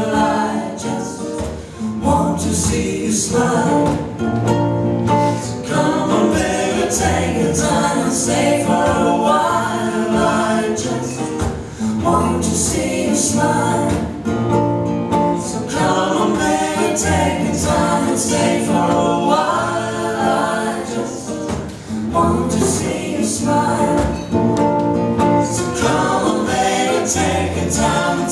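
Acoustic pop song played live: several voices singing together in harmony over strummed acoustic guitars and a ukulele.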